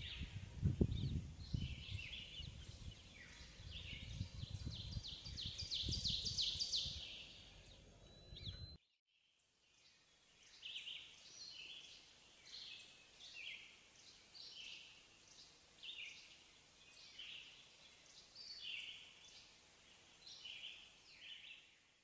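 Songbirds chirping and calling, with a fast trill about six seconds in, over a low rumble. After a sudden break about nine seconds in, the rumble is gone and a bird repeats a short call phrase about every second and a half.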